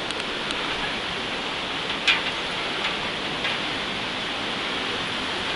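Steady rushing of a mountain waterfall and stream, a dense even hiss of falling water. A single short click sounds about two seconds in.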